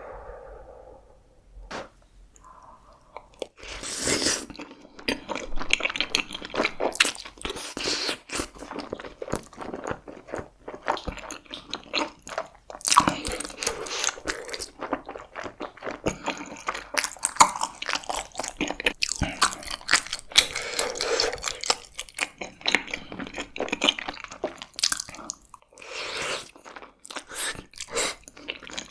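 A person biting and chewing pizza tteokbokki: rice cakes with toppings, in a dense run of wet, clicky chewing sounds and crunchy bites that starts about four seconds in.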